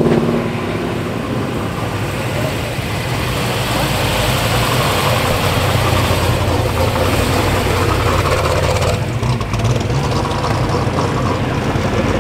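Ford Mustang V8 engines running at idle as the cars roll slowly past in a line, a steady low rumble. A black first-generation Mustang fastback passes first, then a white Shelby GT500.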